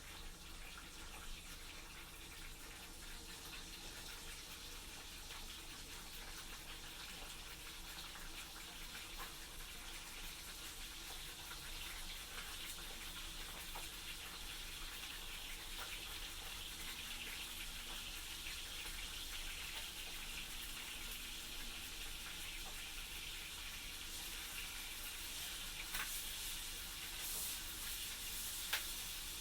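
Food frying in a pan: a steady sizzle that grows slowly louder, with a few sharp clicks near the end.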